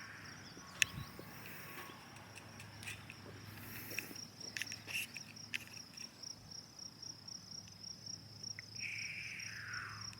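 Insects chirping, a steady high trill in rapid, even pulses, with a few faint clicks and a brief downward-sliding sound near the end.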